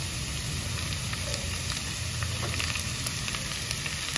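Red onion, garlic and shredded chicken sizzling in hot oil in a nonstick frying pan: a steady frying hiss with scattered sharp crackles, more of them in the second half, over a low steady hum.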